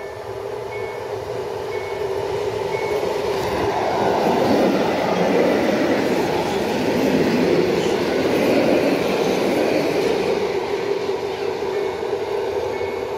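Electric multiple unit passing close by. The rumble and rattle of its wheels and carriages builds up, is loudest for several seconds while the cars go past, then fades as it pulls away.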